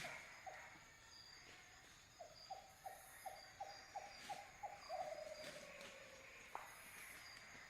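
Faint night ambience of crickets chirping steadily, with an animal's run of about nine short calls, roughly three a second, a couple of seconds in, the last one drawn out into a falling note.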